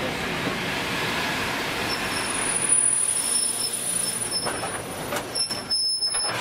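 Passenger train coaches rolling slowly along the platform and braking to a stop, with thin high squeals from about two seconds in. The rolling noise dies away near the end with a few sharp knocks as the train halts.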